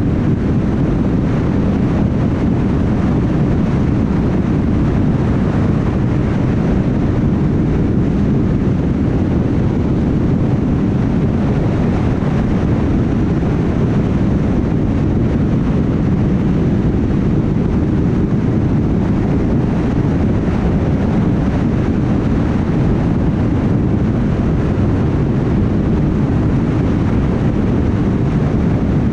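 Steady road noise of a car cruising at highway speed: a constant low tyre-and-road rumble with some wind noise and no changes.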